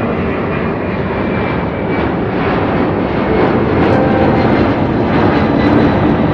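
Airplane engines running, a steady rushing noise that grows louder about two seconds in.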